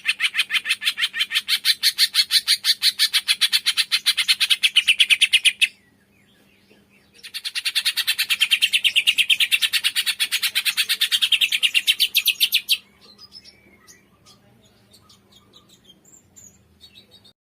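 Songbird known to Indonesian bird-keepers as the cungkok, giving a rapid, even chattering trill of many short high chirps in two long bursts with a short pause between; faint scattered chirps follow near the end.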